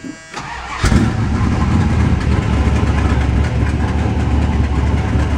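The warning buzzer sounds briefly at the start, then the 1977 Chrysler Cordoba's 400 cubic-inch V8, bored .030 over, is started: it catches about a second in and then idles at a steady level.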